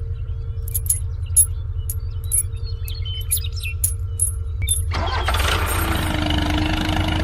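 Small engine running with a rapid, even low pulsing. Sharp clicks and metallic ticks come now and then over the first few seconds, and a fuller mechanical noise joins about five seconds in.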